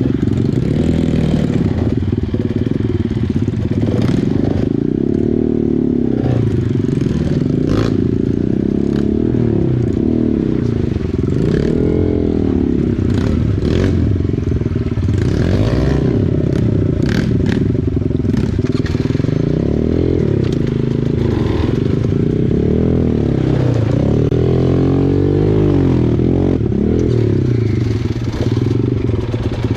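Small dirt bike engine revving up and down over and over as it rides over river rocks, with scattered knocks and clatter.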